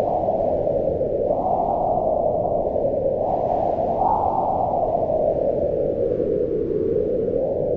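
Howling storm wind: a steady low rush that swells and falls in pitch with the gusts, with a faint thin whistle over it twice.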